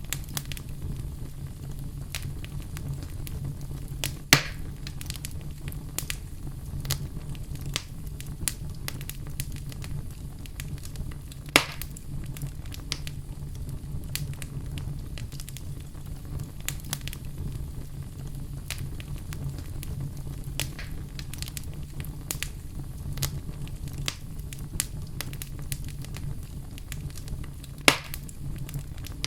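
Wood fire in a fireplace crackling steadily over a low rumble of the flames, with three sharp, louder pops: about four seconds in, near the middle and near the end.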